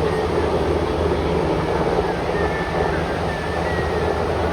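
Aircraft engines droning steadily overhead, with wind and surf noise.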